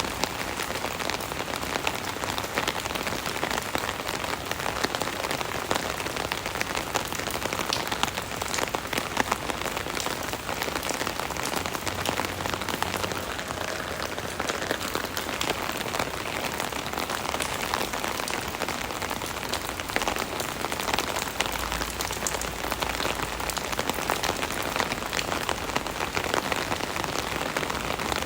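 Steady rain pattering on an umbrella canopy: a dense, even hiss of drops with many individual drop hits.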